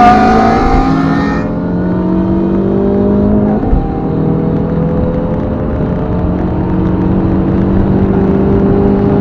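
Tuned car engine heard from inside the cabin. It is pulling hard for the first second and a half, then the throttle comes off, and after that it runs with a slow, steady rise in pitch as the car gathers speed in a high gear.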